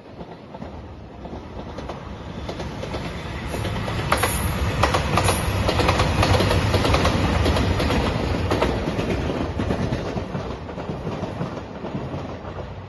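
JR Shikoku 2700 series diesel limited express train passing at speed. Its engines and wheels rise to a peak in the middle, with a run of sharp clicks as the wheels cross rail joints, then fade away.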